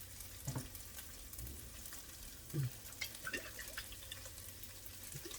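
Chicken sizzling and crackling in a frying pan, with a few knocks from handling in the kitchen, the loudest about two and a half seconds in.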